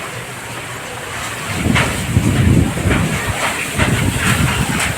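Steady hiss of heavy rain, with an uneven low rumble building up about a second and a half in.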